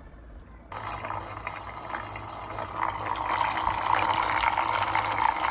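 A small water-filled electric appliance switches on about a second in: a steady motor hum under rushing, churning water that grows louder.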